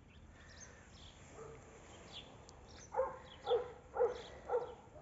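A dog barking four times, about half a second apart, in the second half.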